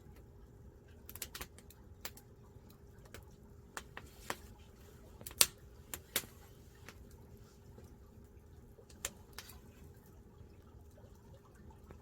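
Firewood crackling as it burns: irregular sharp pops and snaps, the loudest about five seconds in, over a faint low steady background.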